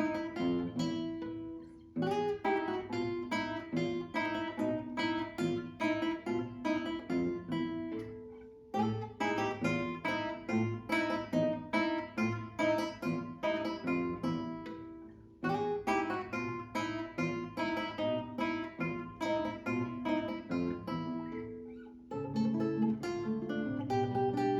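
Acoustic guitars playing a duet: phrases of plucked notes, with a short break between phrases about every six or seven seconds.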